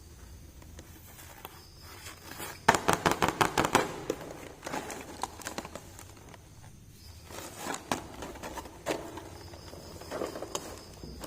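Small plastic toy pieces and packaging handled close to the microphone. About three seconds in there is a quick run of sharp clicks, about ten a second, followed by scattered clicks and rustling.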